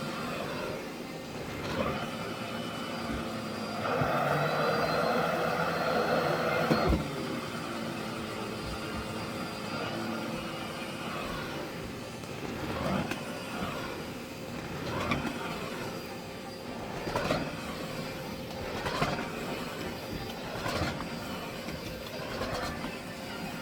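Miele Blizzard CX1 bagless vacuum cleaner running with a steady motor whine, working over a test mess with its Turbo Teq floor tool. It grows louder for about three seconds near the start, then swells and falls back about every two seconds.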